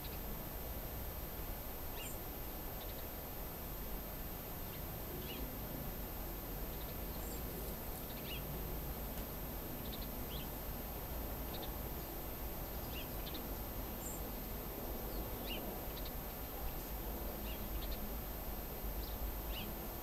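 Small birds chirping, short high calls scattered every second or so, over a steady low background rumble of outdoor noise.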